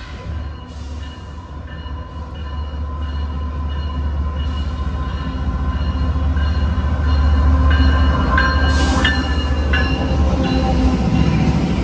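Loaded CSX coal train's diesel locomotives approaching and passing close by, a deep engine rumble growing louder over the first seven seconds or so. A few sharp high-pitched screeches come from the train about eight to ten seconds in as the locomotives go past.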